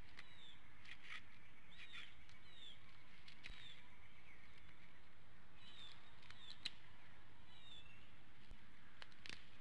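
Short, high bird chirps, each a quick downward-curving note, coming in scattered little groups, with a few sharp clicks in between.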